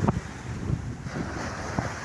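Stormy sea surf washing on the shore, with gusty wind buffeting the microphone in low thumps.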